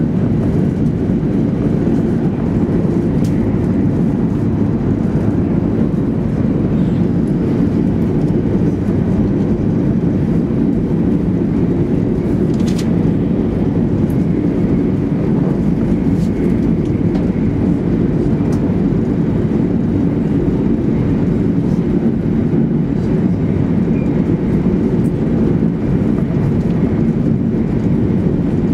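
Steady low rumble inside the passenger cabin of a 200 series Shinkansen running at speed: wheels on rails and the train moving through the air, with no pauses or changes.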